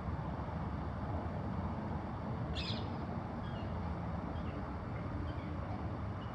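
Steady low rumble of heavy diesel machinery handling coal between ship and trucks. A short bird call cuts in about two and a half seconds in, followed by a few faint chirps.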